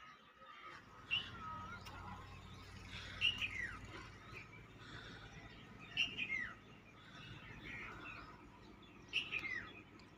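Birds chirping, one repeating a short call that slides downward in pitch about every three seconds, with quieter chirps in between, over a low steady hum that starts shortly after the beginning.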